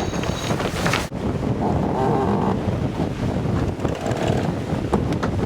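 Wind buffeting the microphone and water rushing past the hull of a sailing catamaran under way, a steady rumbling noise. The sound changes abruptly about a second in, losing its high hiss.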